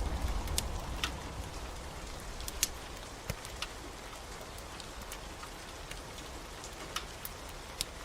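Steady rain falling, with scattered sharp crackles and pops from a log fire. A low thunder rumble fades out about a second in.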